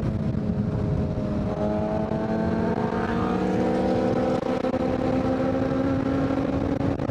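2023 Kawasaki Z900's inline-four engine, breathing through a full Leo Vince exhaust, running steadily under way. The note steps at about a second and a half in, then edges up in pitch over the next couple of seconds and holds.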